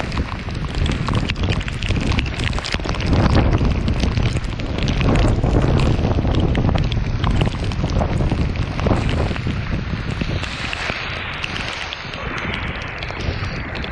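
Strong wind buffeting the microphone, with a heavy low rumble over a dense crackling hiss; the rumble eases somewhat in the last few seconds.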